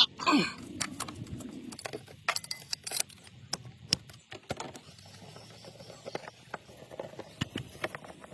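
Scattered light clicks and knocks, irregular and a few each second, over a faint low background hum.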